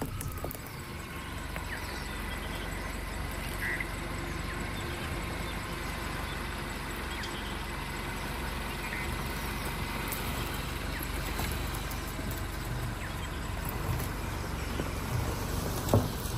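Maruti Suzuki Jimny's 1.5-litre four-cylinder petrol engine running steadily at idle.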